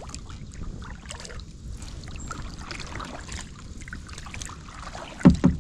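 Kayak paddles dipping into still water, with small drips and trickles over a low steady rumble. A louder burst comes near the end.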